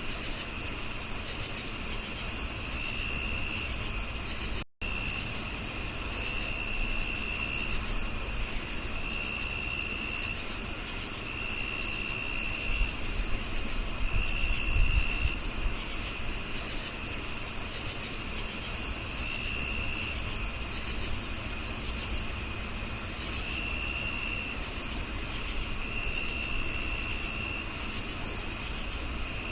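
Several crickets chirping together. One repeats short, evenly spaced chirps, another gives trills about a second long every couple of seconds, and a continuous high insect drone runs underneath. The sound drops out for a split second about five seconds in.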